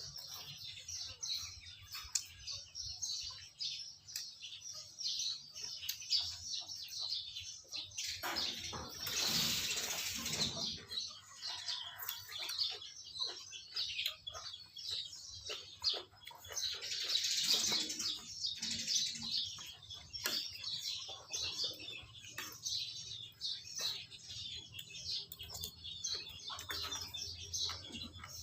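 Many small birds chirping continuously. Twice, about eight and seventeen seconds in, a louder rushing noise rises over them for two or three seconds.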